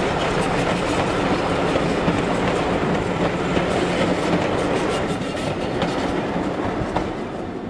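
Passenger train coaches rolling past at close range, their wheels clicking over the rail joints. The sound fades near the end as the last coach moves away.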